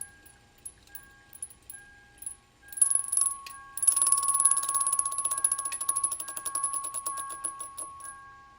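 Rapid metallic rattling with a steady whine from the broken single-turbo 2JZ-GTE Lexus IS300, starting about three seconds in and dying away near the end; the owner says it ain't supposed to sound like that. A soft car warning chime dings over and over underneath.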